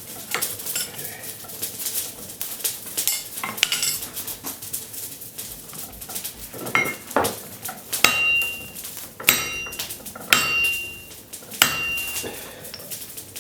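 Blacksmith's hammer striking hot steel on an anvil, straightening the forged railroad spike: irregular lighter taps at first, then four loud blows about a second apart in the second half, each leaving a clear ringing tone.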